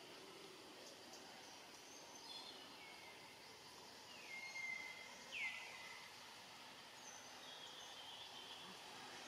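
Quiet outdoor background with a bird's high whistled calls: several notes sliding down in pitch and levelling off, the loudest about five seconds in.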